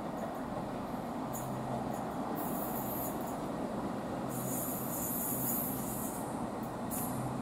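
Northern Ireland Railways Class 4000 diesel multiple unit running past on curved track: a steady low engine hum with several short spells of high hissing from the wheels, the longest about two seconds.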